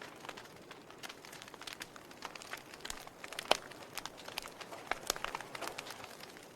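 Wood fire crackling in a fireplace: burning logs giving off irregular sharp pops and snaps over a soft hiss, with one louder pop about three and a half seconds in.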